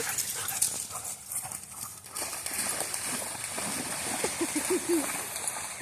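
Dogs bounding and splashing through shallow floodwater after a thrown ball, an uneven patter of footfalls in the water.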